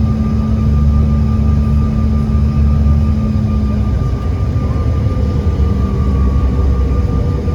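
Jet airliner engines running steadily, heard inside the cabin as a deep rumble with a thin high whine. A lower hum drops out about halfway through.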